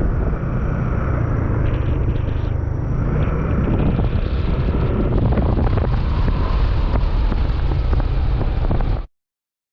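Yamaha NMAX scooter engine running steadily, with wind buffeting the microphone; the sound cuts off suddenly near the end.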